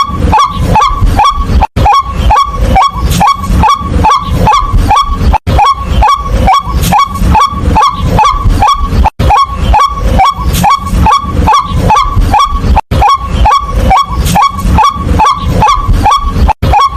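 White-breasted waterhen calls, a fast run of harsh notes, about three to four a second, each rising in pitch. The run breaks off for a moment about every four seconds, like a looped recording.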